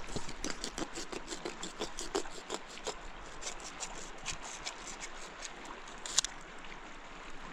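A run of small, irregular clicks and scrapes, as of something being handled or rubbed close by, with a sharper cluster of clicks about six seconds in.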